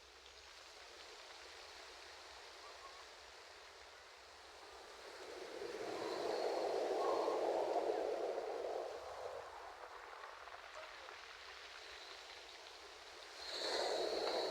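Ocean surf washing in: a steady hiss of waves that swells louder twice, about five seconds in and again near the end.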